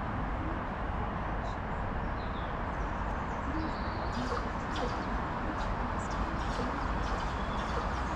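Birds chirping and calling over a steady background rumble of outdoor noise.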